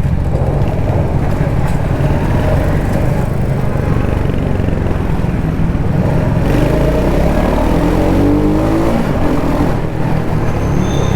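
Kawasaki Z900's inline-four engine and exhaust running at road speed, with wind rush. About six and a half seconds in, the engine note rises as the throttle is opened and the bike accelerates.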